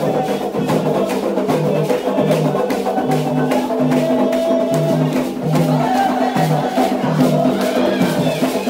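Candomblé ceremonial music: steady, rhythmic percussion strikes under sustained group singing.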